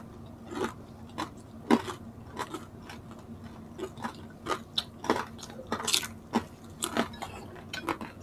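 Close-miked chewing and crunching of crispy deep-fried pork, heard as irregular short crackles and clicks, with small clinks of dishes now and then.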